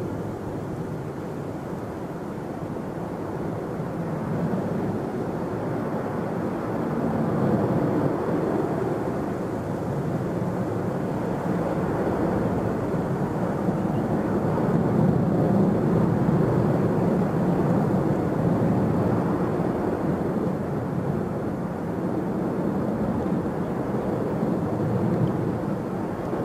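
Jet airliner engines at takeoff power: a broad rumble that builds over the first several seconds, stays loud through the middle and eases slightly near the end.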